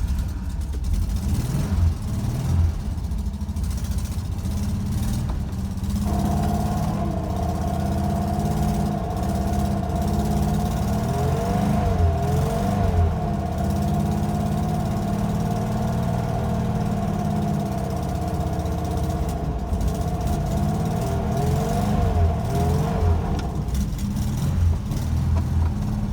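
Air-cooled flat-four engine of a VW Type 3 catching at once on a cold start at about 40°F, then running steadily without stalling. A steady whine rises over the engine note about six seconds in and drops away near the end.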